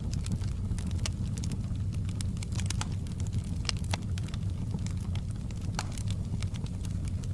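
Crackling fire: irregular sharp pops and snaps, several a second, over a steady low rumble.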